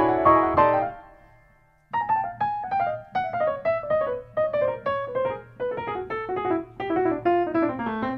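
Background piano music: a ringing chord that dies away, a brief pause, then a quick run of notes with a falling melody.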